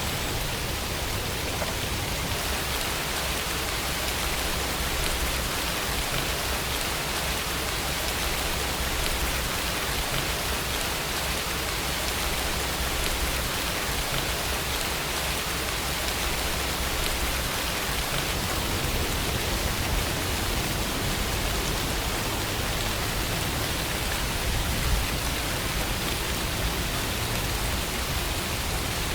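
Steady rainfall: an even, unbroken hiss of rain on a surface.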